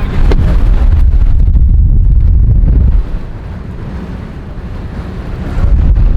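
Strong wind gusts buffeting the microphone in a storm, a heavy low rumble. It is very loud for about three seconds, drops back, then gusts hard again near the end.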